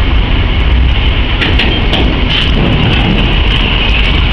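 Freight train of covered wagons making a steady low rumble with scattered metallic clicks, and a thin high-pitched squeal that creeps in about two seconds in.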